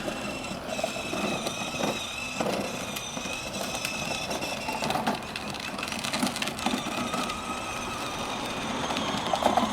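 Battery-powered ride-on toy car driving, its electric motor and gearbox giving a steady high whine, with scattered clicks and knocks.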